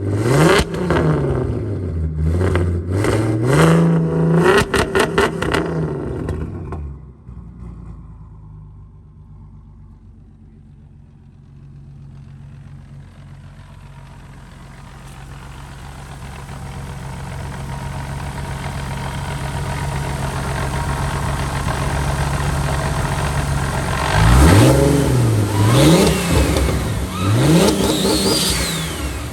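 Big-turbo car accelerating hard through the gears, its engine pitch climbing and dropping back at each shift. It then settles into a steady cruise as road and wind noise builds, and accelerates through the gears again near the end, with a high rising whistle.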